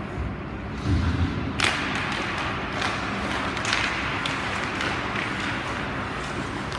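Ice hockey play on a rink: a low thump about a second in, then several sharp clacks of sticks and puck over steady rink noise.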